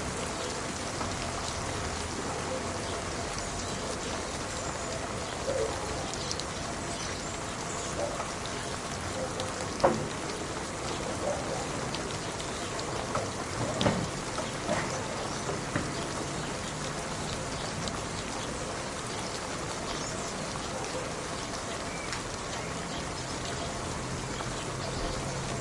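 Steady rain falling, an even hiss with individual drops splashing close by now and then; the sharpest drops come about ten and fourteen seconds in.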